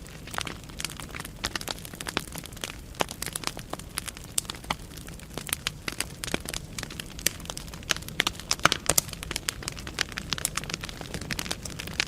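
Wood fire burning in a fireplace: logs crackling with frequent sharp, irregular pops and snaps over a steady low rumble of the flames.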